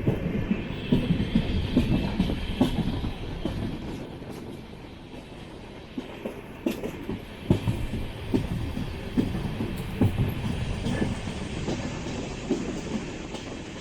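Express passenger train running on the line, heard from on board: a steady rumble with irregular wheel clatter over rail joints. It is loudest in the first few seconds, eases off for a moment, then picks up again with a few sharper knocks.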